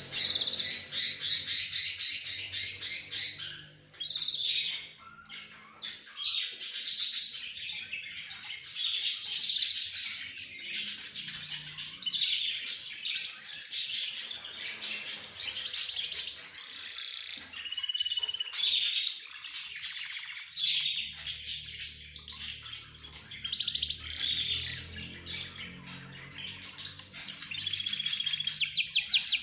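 A mixed flock of cage birds (budgerigars, rosy-faced lovebirds, zebra finches and a canary) chirping and chattering together in a dense, continuous stream of rapid high calls, with a brief lull about four to six seconds in.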